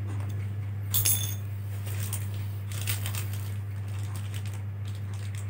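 A small metal part clinks about a second in, ringing briefly, then light clicks and scrapes follow as small screws are worked back into a laptop's case. A steady low hum runs underneath.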